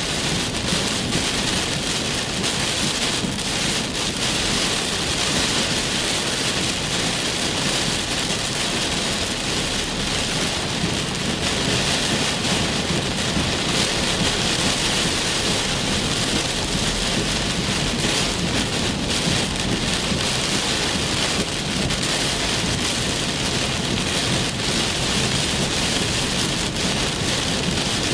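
Heavy rain falling in a steady downpour from a severe thunderstorm, an even, unbroken hiss with no letup.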